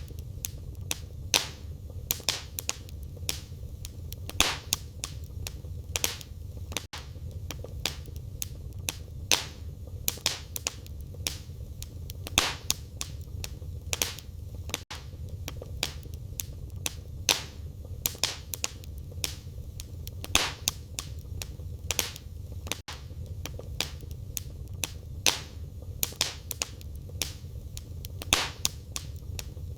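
Wood fire burning in a fireplace: frequent irregular sharp crackles and pops from the burning logs over a steady low rumble of the flames.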